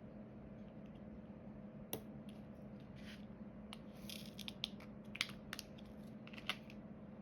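Small clicks and light rustling of diamond-painting work: a drill pen picking up resin drills and pressing them onto the canvas. There is one sharp click about two seconds in and a scatter of quicker clicks in the second half, over a steady low hum.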